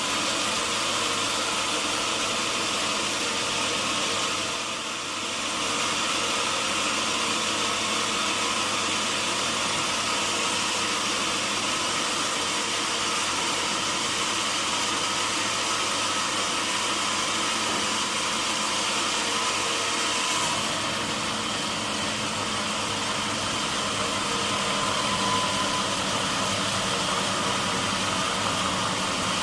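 Sawmill machinery running steadily, a constant mechanical hum and hiss, dipping briefly about five seconds in.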